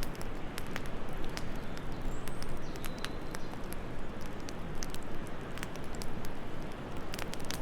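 Wood fire crackling in a fireplace, with scattered irregular pops and snaps over a steady low rush of wind.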